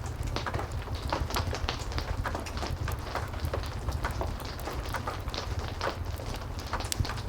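Heavy rain falling steadily over a low rumble, with a fireplace crackling in irregular sharp pops.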